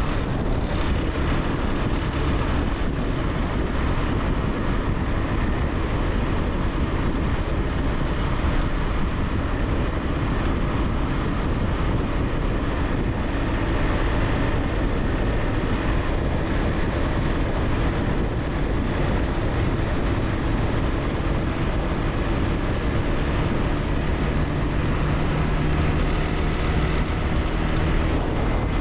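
Honda CBR300R's single-cylinder engine running at a steady cruise, under heavy wind rush on the microphone. A steadier engine note comes through more clearly in the last few seconds.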